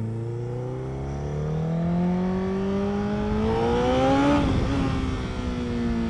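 A motor vehicle's engine accelerating past, its pitch climbing for about three seconds. It is loudest about four seconds in, then the pitch drops and slowly sinks as it goes by.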